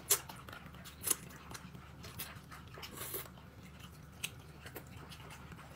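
A person chewing and biting into food, with scattered short crunchy clicks and smacks; the sharpest come just after the start and about a second in.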